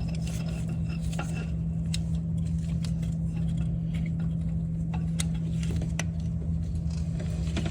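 A few light metallic clicks and clinks of hand tools and engine parts being handled during timing belt work, spread a second or more apart, over a steady low hum.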